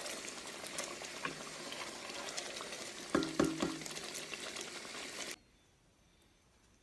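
Beef kofta curry sizzling in its pot on low heat, a steady hiss, with a few knocks of a utensil against the pot about three seconds in. The sizzling cuts off abruptly about five seconds in.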